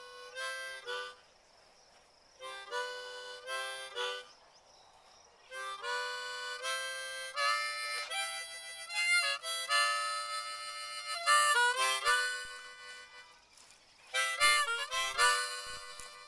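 Harmonica music playing chords in phrases of a few seconds each, with short pauses between them.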